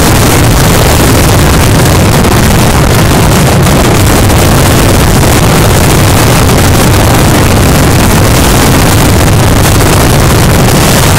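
Fireworks finale barrage: aerial shells and crackling stars bursting overhead in such rapid, overlapping succession that the blasts run together into one continuous, very loud din with no breaks.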